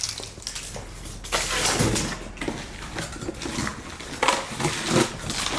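Irregular rustling and handling noise with a few knocks, as parts and packaging are moved about by hand.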